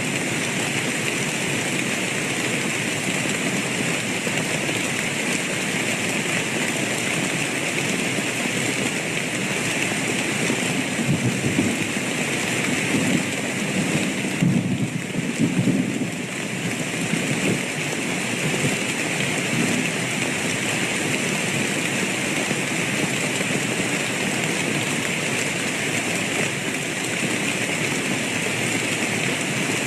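Steady heavy rain, with thunder rumbling low in the background about a third of the way in and again near the end.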